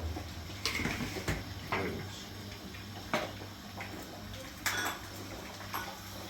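A few scattered knocks and clinks, about six over several seconds, over a steady low hum.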